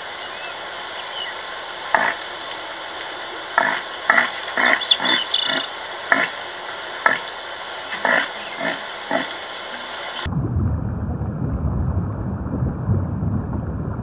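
Deer giving a dozen or so short, sharp calls at irregular intervals, over a steady outdoor background with faint bird chirps. About ten seconds in, this cuts off suddenly to a low, steady rushing noise.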